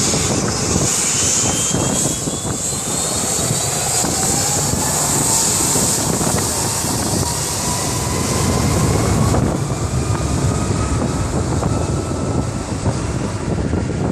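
Jet airliner taking off at full thrust: a loud, steady rumble with whining engine tones that glide in pitch.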